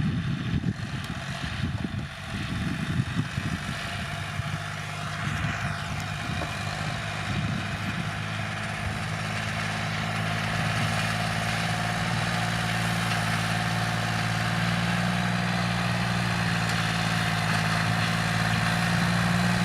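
Diesel engine of a 75-horsepower John Deere tractor running steadily, growing slowly louder; its steady engine hum becomes clear about halfway through.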